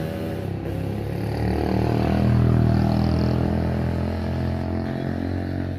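An engine running steadily, swelling louder about two seconds in and easing off again.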